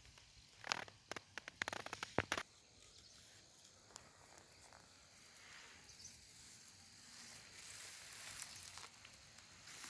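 Faint outdoor ambience with a quick run of dry crackling, rustling clicks about a second in, then a soft hiss that swells near the end.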